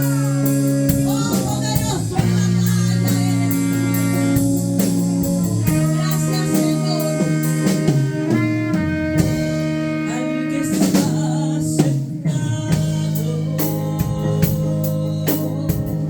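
Live worship band music: sustained keyboard or guitar chords over a drum kit keeping a steady beat on the cymbals, with some singing.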